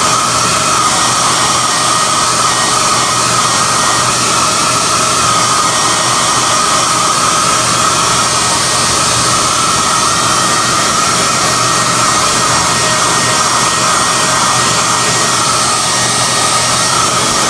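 SOUNATE high-airflow hair dryer (XM-H008/YX-HM008-G) running steadily: a loud rush of air with a high motor whine that wavers slightly in pitch.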